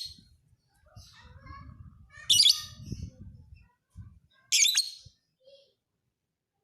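Lovebird singing: soft twittering chirps broken by loud, shrill screeching calls, two of them about two seconds apart.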